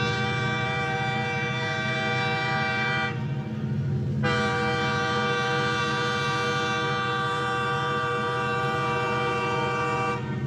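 Train horn sounding two long blasts, the first about three seconds and the second about six, with a short break between, over the steady low rumble of a train running.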